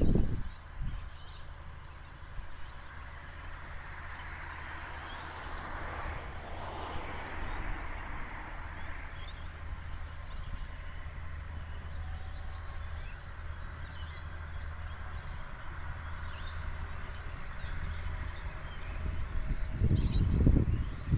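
Adelaide Metro suburban passenger train running away from the station: a steady low hum and a wash of wheel and rail noise that swells about six to eight seconds in, then eases. Birds chirp throughout, and a loud low rumble comes in near the end.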